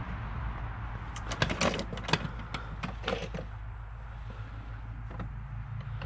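Hand tools clinking and clattering against each other in a quick run of sharp knocks about a second in, then fewer, over a steady low hum.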